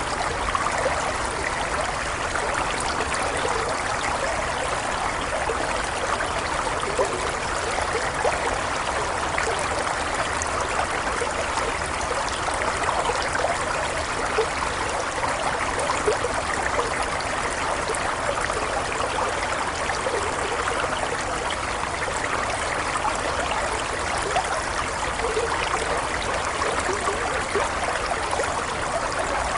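Water running in a stream, a steady babbling flow dotted with many small splashes and gurgles.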